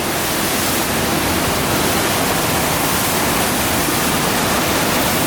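Steady rush of water from a FlowRider sheet-wave machine, the pumped sheet of water pouring up and over the ride surface.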